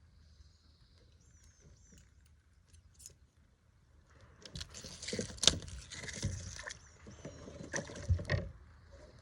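Knocking and scraping on a kayak hull, with a sharp knock about five and a half seconds in and more knocks near eight seconds.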